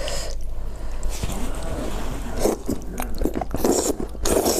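A person eating close to the microphone, biting and chewing in uneven bursts with short wet clicks, on what is likely extra-spicy stir-fried rice noodles.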